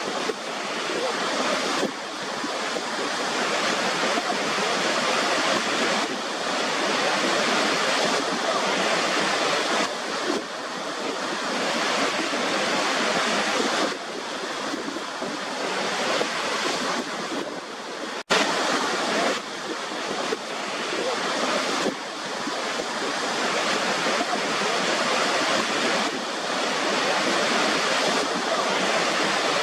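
Waterfall: a steady rush of falling water with no music, broken by a brief dropout about eighteen seconds in.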